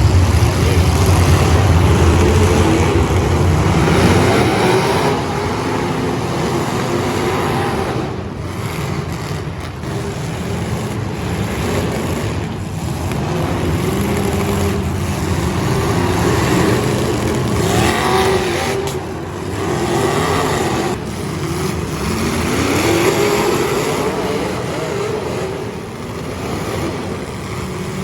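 Derby car engines running and revving hard, the pitch rising and falling again and again, with a voice heard at times under the engines.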